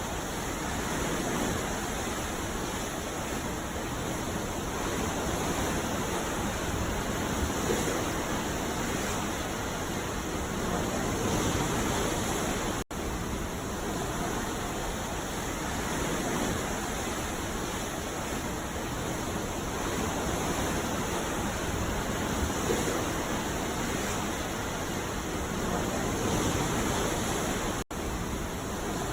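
Ocean surf washing onto a beach in a continuous hiss that swells gently and eases every few seconds. The sound drops out for an instant twice, about 13 seconds in and near the end.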